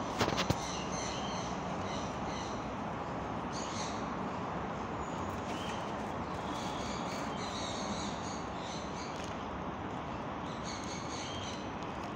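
Birds calling in short repeated bursts over a steady background hiss, with a few sharp clicks about half a second in.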